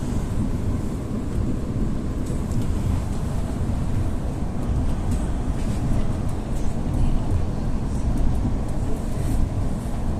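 EP2D electric train running: a steady low rumble of wheels and running gear, with faint scattered ticks.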